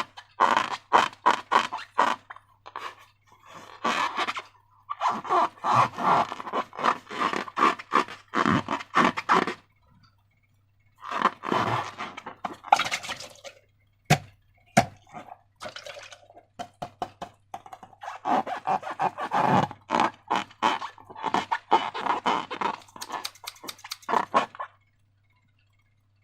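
Slime being squeezed and worked by hand, giving bursts of wet clicking and crackling with short pauses between them.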